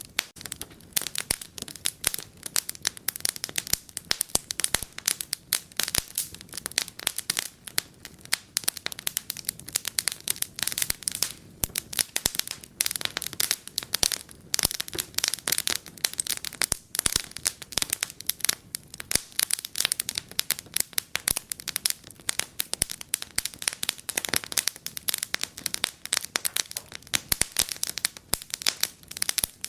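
Fireplace fire crackling, with rapid, irregular pops and snaps.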